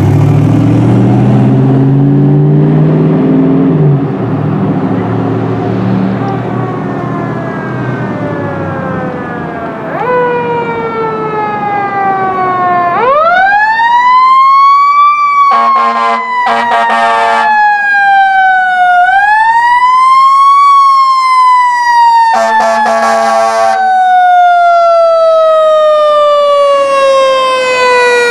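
Fire department medic engine responding with its siren wailing: after the engine is loud for the first few seconds, the siren falls slowly, sweeps up twice and glides down again in long falls. Two blasts of air horn sound in the middle.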